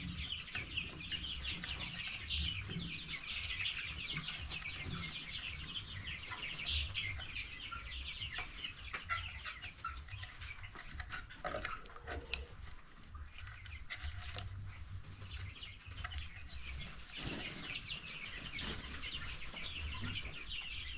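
A flock of young chicks cheeping and clucking continuously in a dense chatter, with a few short knocks partway through.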